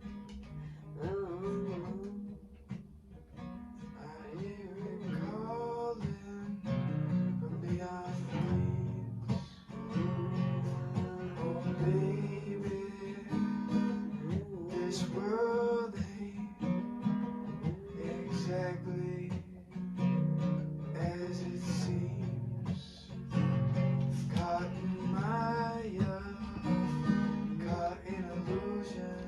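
Acoustic guitar strummed steadily while a voice sings a flowing, improvised melody over it.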